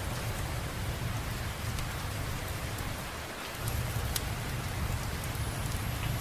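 Steady rain ambience over a constant low rumble, with a few sharp ticks scattered through it. The rumble drops away briefly about three seconds in.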